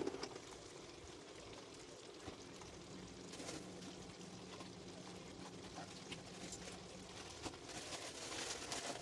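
Faint steady hiss and bubbling of pots cooking on a stovetop, a pot of noodles turned up to high, with a few light ticks and a faint low hum.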